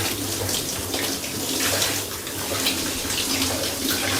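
Water running steadily into a bathtub, splashing unevenly.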